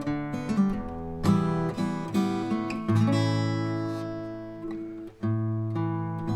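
Acoustic guitar played fingerstyle, with plucked melody notes over a bass line. A chord about three seconds in rings and fades, then a brief break just after five seconds before the next chord.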